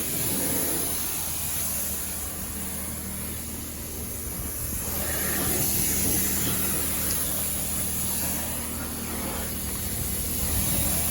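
Pressure washer spraying water onto a car's tires and frame: a steady hiss of spray over a steady low hum.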